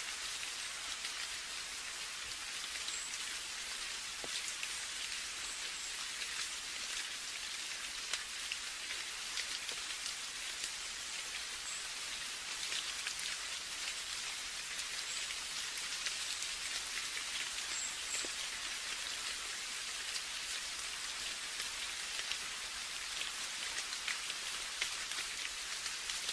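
Steady rain: an even hiss of rainfall with many small drops ticking through it.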